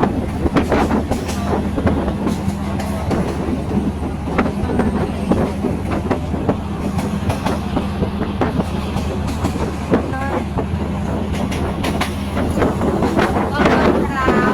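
Moving train heard from on board: wheels clicking over the rail joints over a steady low rumble.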